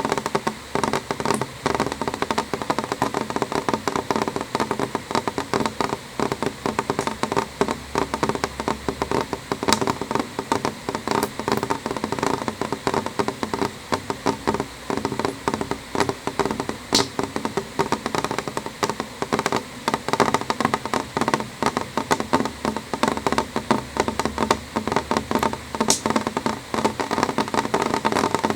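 Rain falling on a window pane: a steady, dense run of quick, irregular drop strikes on the glass, with a few sharper single drops standing out now and then.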